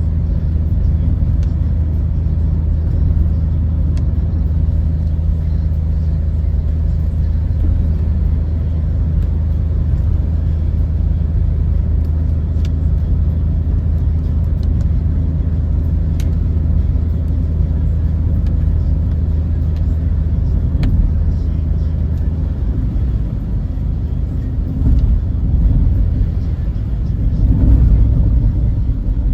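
Car driving, heard from inside the cabin: a steady low drone of engine and road noise with a few faint ticks. The low hum shifts in pitch about three quarters of the way through and grows a little louder near the end.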